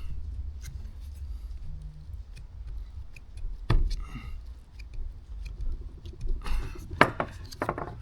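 Scattered clicks and light clatter of a plastic recoil starter assembly and hand tools being handled, with a sharp click about halfway through and another near the end, over a steady low rumble.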